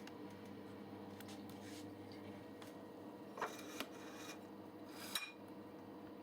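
A few light clicks, a short scrape and then a sharp click as hard objects are handled, over a faint steady hum.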